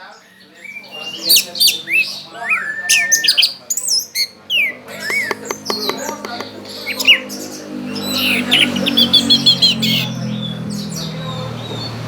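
Orange-headed thrush (anis merah) singing loudly: a fast, varied run of sharp chirps, squawks and gliding whistles. A low hum builds underneath in the second half.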